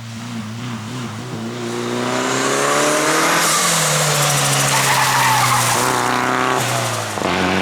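Toyota Celica rally car's engine under hard acceleration, the revs climbing over the first few seconds and then held high with loud tyre noise, before a lift and a quick gear change near the end.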